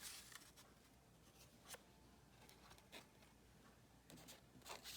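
Near silence with a few faint, scattered rustles and light taps of cardstock being handled.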